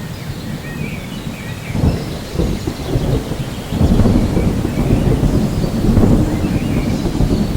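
Rolling thunder rumbling over steady rain, swelling louder about four seconds in, with birds chirping faintly above it.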